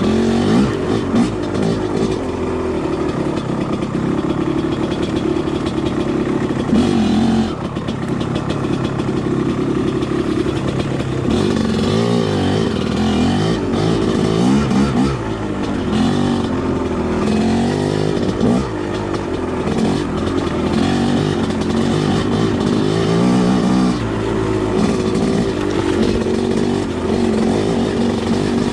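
Two-stroke dirt bike engine being ridden on a trail, its revs rising and falling over and over as the throttle is worked.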